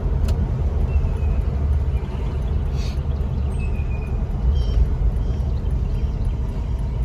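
A 1973 Ford Torino's 351 Cleveland V8, fitted with Holley Sniper EFI, running under about half throttle on the road, heard from inside the cabin as a steady low rumble. A few faint high chirps are heard now and then.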